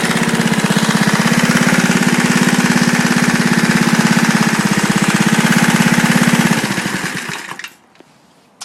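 Turbocharged Briggs & Stratton lawnmower engine running fast and steady with a rapid, even firing beat. It is shut off about six and a half seconds in and winds down to a stop.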